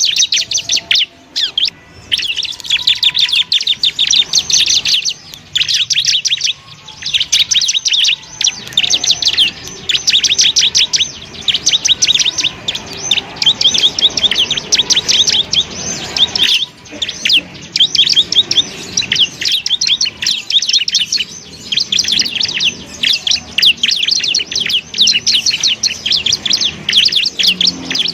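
Bar-winged prinia (ciblek) singing a fast, rapid-fire chattering song of many quick high notes in long runs, with brief breaks.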